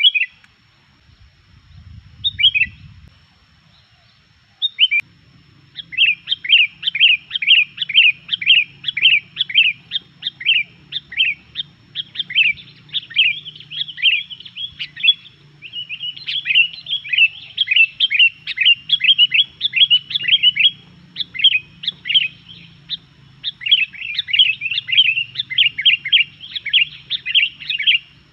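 Sooty-headed bulbul (kutilang) calling: a few scattered notes, then from about five seconds in a fast, nearly unbroken run of sharp, downward-slurred chirps, several a second. The bird is in full, constant song (gacor).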